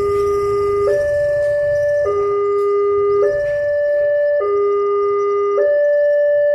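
Railway level-crossing warning alarm sounding a steady two-tone electronic signal. A low tone and a higher tone alternate, each held a little over a second, warning that a train is approaching. A low rumble runs underneath for the first few seconds.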